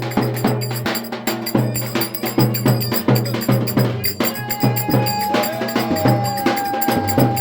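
Turkish folk dance music (oyun havası) with fast, dense drumming. A high melody note enters about halfway through and is held.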